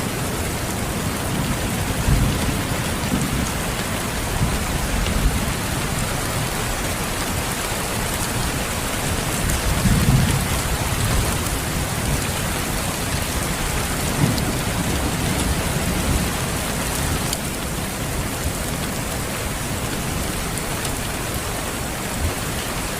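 Steady rain hissing evenly, with low rolls of distant thunder about two seconds in, around ten seconds, and again around fourteen to sixteen seconds.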